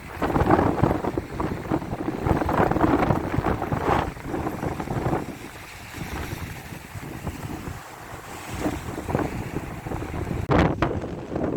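Strong beach wind buffeting the microphone in irregular gusts. The gusts ease for a few seconds in the middle and pick up again near the end.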